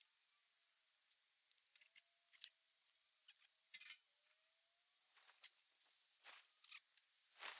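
Faint, irregular light clicks and rustles of plastic pipe fittings and hose being handled and fitted together, against near silence.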